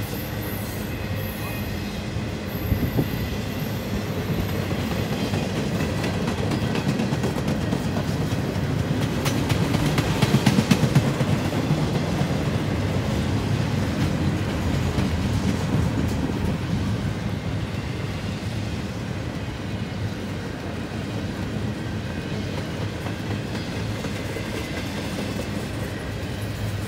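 Empty intermodal well cars of a freight train rolling past, their wheels clicking steadily over the rail joints. A thin, high wheel squeal dies away about two seconds in, and the rolling grows louder for a moment about ten seconds in.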